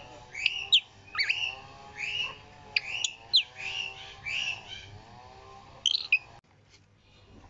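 Birds calling: a run of short repeated chirps with a few sharp whistled sweeps, which cuts off suddenly near the end.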